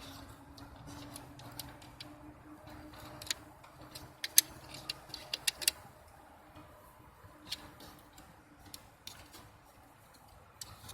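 Irregular metallic clicks and taps from hands and tools working a wire onto a car battery terminal, thickest about halfway through, over a faint steady hum.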